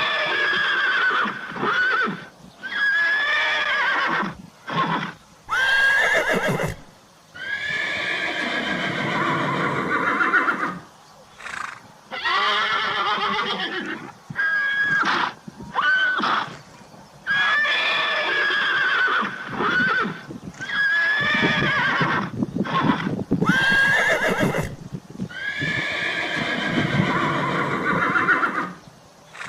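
Horse neighing again and again, a string of whinnies with short gaps between them.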